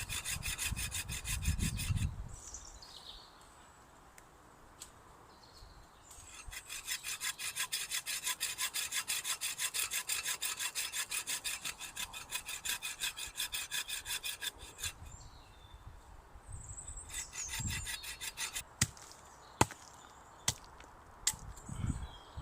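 Hand saw cutting through wood with quick, even strokes, about five a second, in two bouts; a few sharp cracks near the end.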